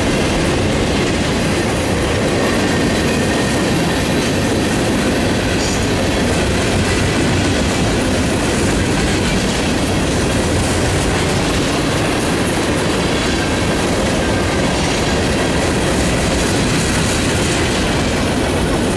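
Cars of a long mixed freight train (boxcars, covered hoppers and tank cars) rolling past close by: a steady rumble and clatter of steel wheels on the rails.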